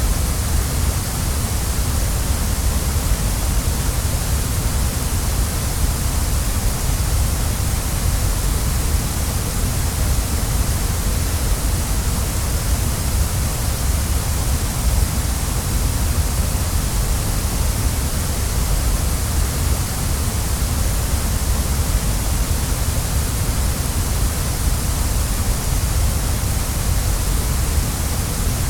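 Waterfall: water falling and rushing in a steady, unbroken roar of noise, deep and full in the low end with a bright hiss on top.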